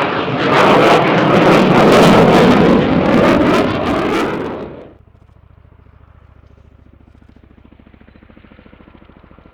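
Spanish Air Force F/A-18 Hornet jet passing low with loud, crackling engine noise, which cuts off abruptly about five seconds in. It is followed by the quieter, rhythmic rotor chop of an RAF CH-47 Chinook tandem-rotor helicopter.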